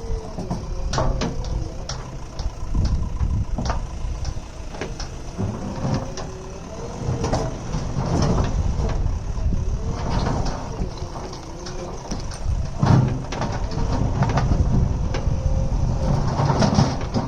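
JCB earth-moving machine's diesel engine running under load, its pitch wavering up and down, with repeated sharp clanks and knocks throughout.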